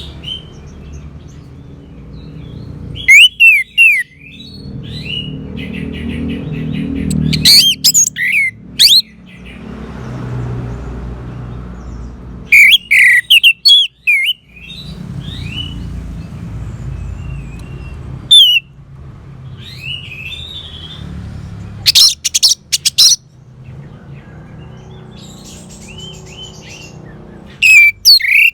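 Orange-headed thrush singing in short bursts of quick, sweeping high whistled notes every few seconds, over a low steady rumble.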